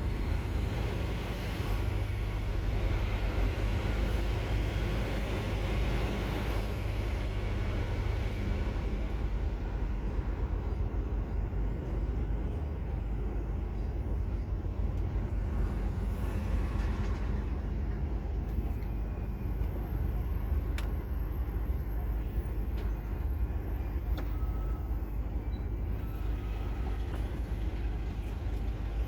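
Truck's diesel engine running with a steady low drone, heard with road and tyre noise; a broader hiss rises over the first several seconds, then eases.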